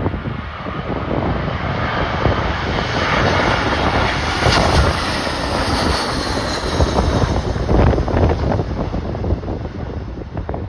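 Jet airliner passing close by, its engine noise swelling to a peak about four to five seconds in, with a whine falling in pitch as it goes past, under heavy wind buffeting the microphone.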